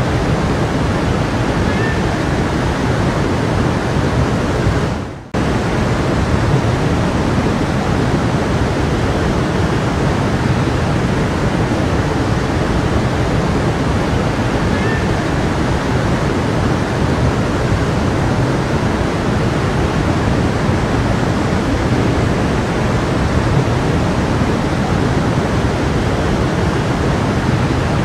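Steady rushing of a flowing stream. About five seconds in, the sound fades down briefly and then cuts abruptly back in at full level, as at an edit in the recording.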